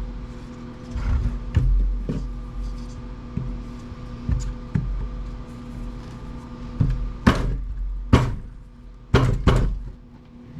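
Knocks and clunks of a Black & Decker wood planer's housing being pulled and worked at by hand while it is still held together by a hidden screw. Several sharper strikes come about seven to nine and a half seconds in.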